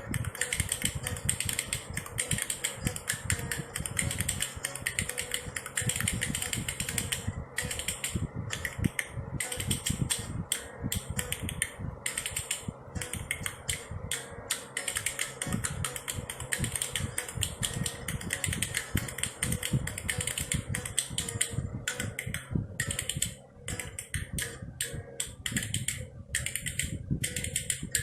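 Spoons played as a percussion instrument: a fast, dense clacking rattle that keeps up throughout.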